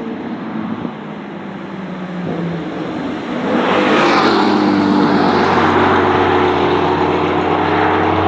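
Supercar engine under hard acceleration, getting louder about three and a half seconds in, with its pitch slowly climbing and a rush of wind and tyre noise.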